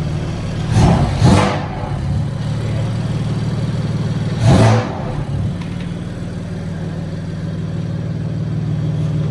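BMW F82 M4's twin-turbo S55 straight-six idling with aftermarket downpipes fitted, blipped to a short rev twice, about a second in and again at about four and a half seconds.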